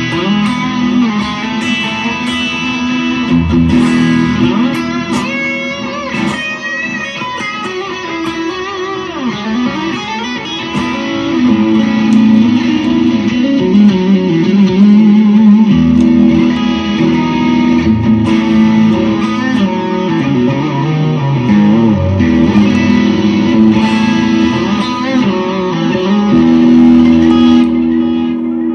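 Electric guitar played through a Walrus Audio Mayflower overdrive pedal, heard through studio monitors in the room: an overdriven tone with long sustained notes, chords and bent, wavering lead lines.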